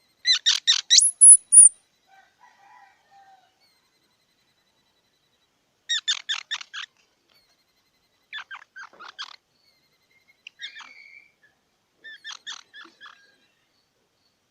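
Squirrel calling in short bursts of rapid high chips, about five bursts with pauses between. The first burst is the loudest and ends in a thin, high squeal.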